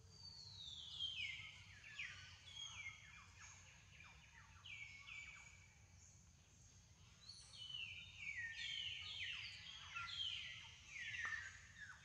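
Birds calling in the forest canopy: many overlapping whistles, each sliding steeply down in pitch, come in two busy spells, the second near the end. A thin steady high tone runs underneath.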